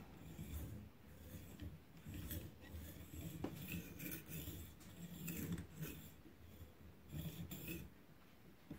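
A 1200-grit extra fine sharpening stone on a guided rod rubbing along a knife edge in a few light, faint scraping strokes: a test pass to see where the stone takes off the marker ink at the set angle.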